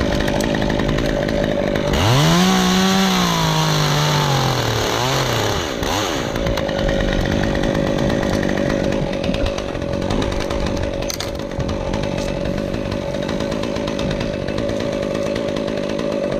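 Chainsaw running steadily throughout. About two seconds in, a second pitched sound rises and then slides slowly down over about three seconds.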